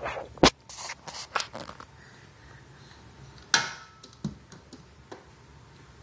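A baby's short, sharp mouth clicks and pops, in an irregular string, the loudest about half a second in and another strong one midway: the fun new sounds an eight-and-a-half-month-old has just started making.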